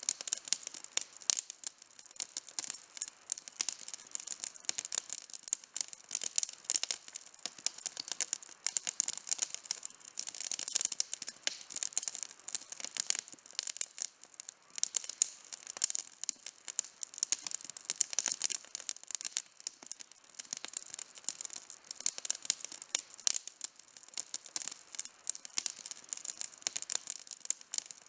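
Wood campfire burning with dense, irregular crackling and popping, many sharp snaps a second.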